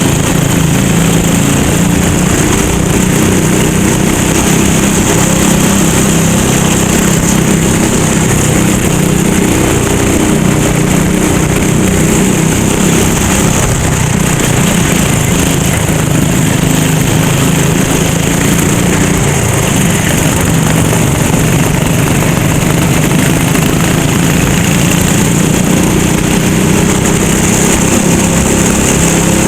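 Kart engine running hard under racing load, its pitch drifting down and back up as it slows for corners and accelerates out.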